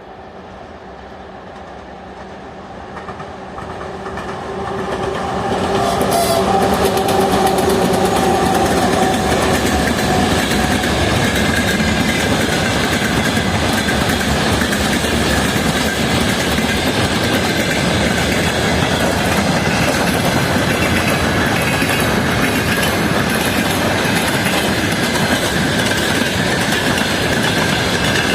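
2TE116 diesel locomotive with its twin 16-cylinder diesels drawing closer, its engine note growing louder over the first six seconds and dipping slightly in pitch as it passes. After that come the loud, steady rolling and clickety-clack of freight wagons' wheels over the rail joints.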